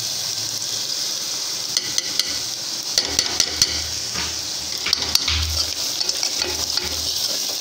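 Chopped onions and ginger-garlic paste sizzling in oil in a pressure cooker, with a steel ladle stirring and scraping against the pot. A run of sharp clinks and scrapes comes in the middle.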